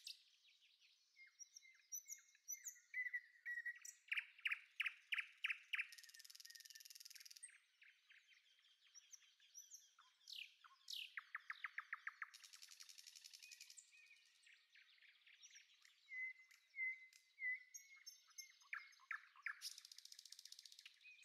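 Faint birdsong: several chirping calls, with runs of quick repeated notes at about four or five a second and a few falling whistles. Three times, a short high hissing buzz lasting about a second and a half joins in.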